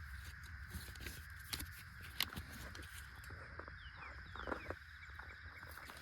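Faint birdsong: a few short, falling chirps around the middle, over a steady faint hiss, with scattered light clicks and rustles.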